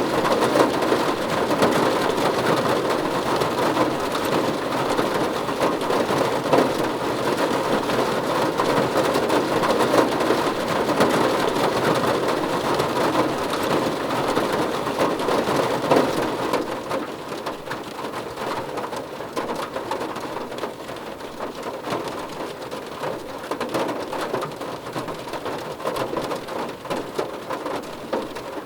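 Rain falling on a car roof, a dense steady patter of drops on the metal. A little past halfway it eases off and becomes noticeably quieter.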